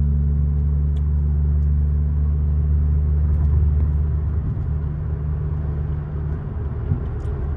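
BMW 540i's turbocharged B58 inline-six droning steadily at constant revs, heard from inside the cabin while cruising. The drone eases off a little past halfway and fades out near the end.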